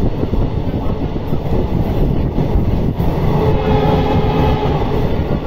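Passenger train running at speed, heard from its open door: a steady, dense rumble of wheels on the track. A faint pitched hum joins in for about two seconds past the middle.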